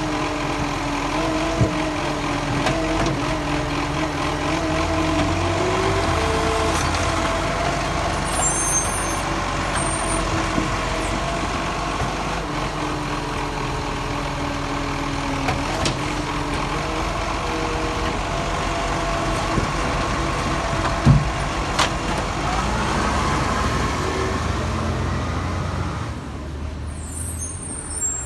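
Garbage truck's diesel engine running, its speed rising and falling, with a few sharp knocks, the loudest about three-quarters of the way through. The engine drops in level near the end.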